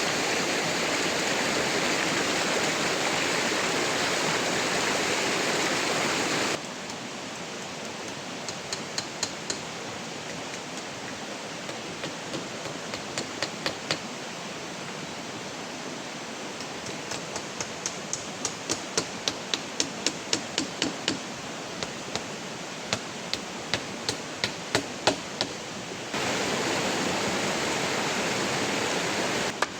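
Loud, steady hiss of running water or rain. It cuts abruptly to a quieter hiss with runs of quick, sharp knocks, several a second, like tools striking wood. The loud hiss returns near the end.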